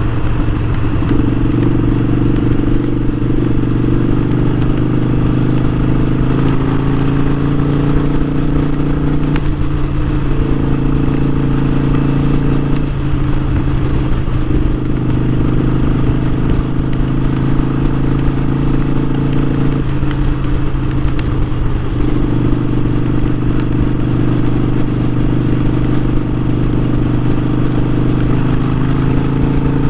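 Harley-Davidson Sportster 1200's air-cooled V-twin engine running steadily with the motorcycle under way. Its tone changes several times as the throttle is eased and opened.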